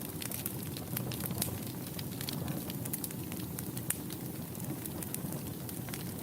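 Wood fire burning in a fireplace: a steady low rumble of flames with many small irregular crackles and pops.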